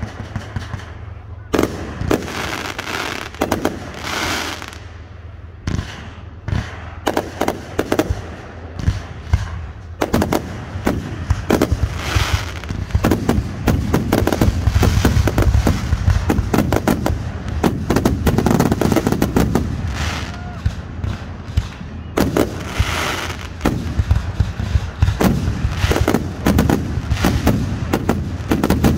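Fireworks display: aerial shells bursting with sharp bangs and crackling, thickening into a dense, almost continuous barrage from about ten seconds in.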